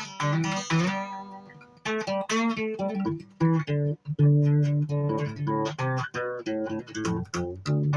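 Guitar playing a slow piece of single plucked notes and chords that ring and fade, with short breaks about two seconds in and again near four seconds.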